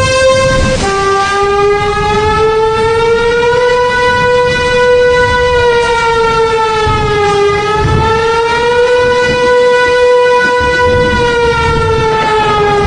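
A siren sounding one long, wavering wail that dips suddenly in pitch about a second in, then rises and falls slowly, over a low rumble.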